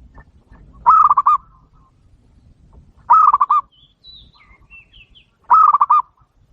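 Zebra dove (perkutut) calling three times, each call a quick run of four or five clear cooing notes, with faint high chirps between the second and third call.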